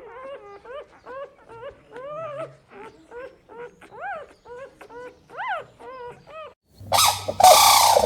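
Puppy whining and whimpering in a quick run of short, rising-and-falling cries, about two or three a second. Near the end a much louder, harsher animal call cuts in.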